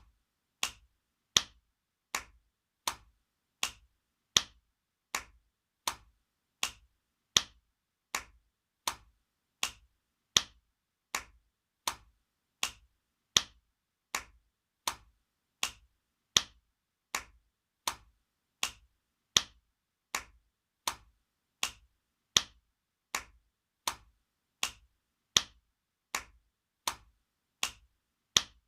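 Spanking sound effect: sharp slaps, a little more than one a second, repeating as a loop with one louder slap about every three seconds.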